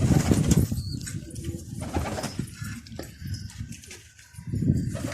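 Domestic pigeons cooing, loudest at the start and again near the end.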